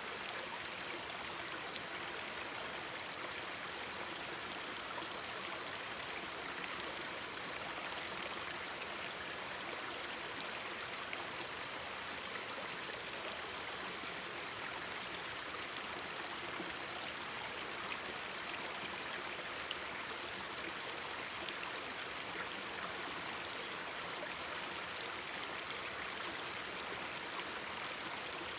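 Mountain stream babbling steadily, with faint scattered ticks of a crackling campfire over it.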